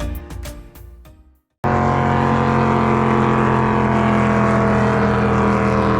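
Music with struck notes fades out over the first second and a half. After a brief gap, a dinghy's outboard motor cuts in abruptly and runs steadily at a constant pitch, cruising.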